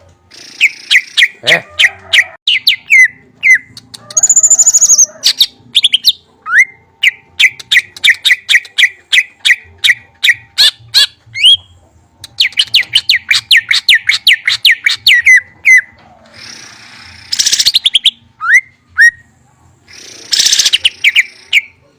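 Songbird singing loudly in long, rapid runs of sharp repeated chirps, several notes a second, with a high rising whistle about four seconds in.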